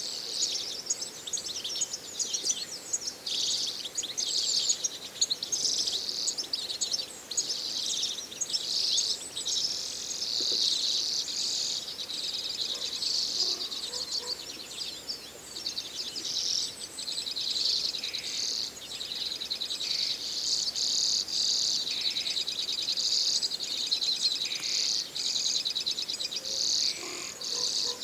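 A flock of redpolls with other small songbirds calling, a dense, continuous high-pitched twittering of many overlapping calls.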